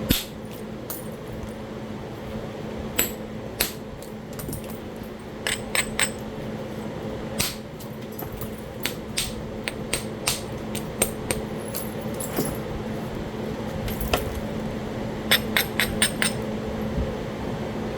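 Flintknapping: a percussor striking a Talahata quartzite biface, giving sharp stone clicks and knocks, some single and some in quick runs of several taps, with a cluster of strikes near the end.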